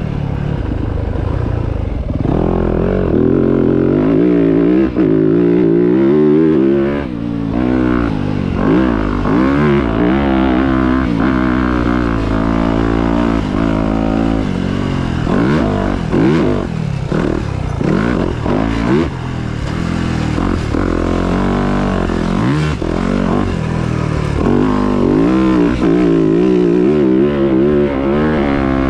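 Dirt bike engine being ridden hard, its pitch rising and falling over and over as the throttle opens and closes through the gears.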